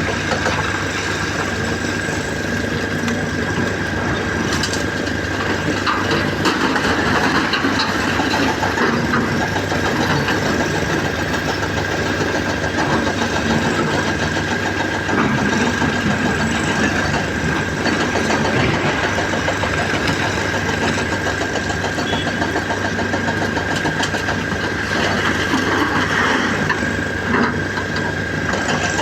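Heavy diesel machinery running steadily, with a constant high-pitched whine over the engine drone: a Caterpillar 336 excavator at work loading a truck.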